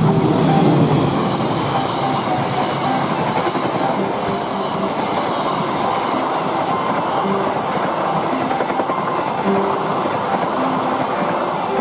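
Diesel-electric locomotive passing close by, followed by a long train of stainless-steel passenger coaches rolling past, their wheels running steadily over the rails. Loudest in the first second as the locomotive goes by, then an even rolling rumble from the coaches.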